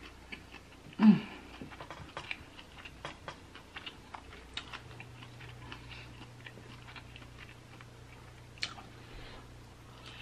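Close-miked chewing of creamy Alfredo pasta: a steady patter of wet mouth clicks and smacks. About a second in there is a short hummed vocal sound.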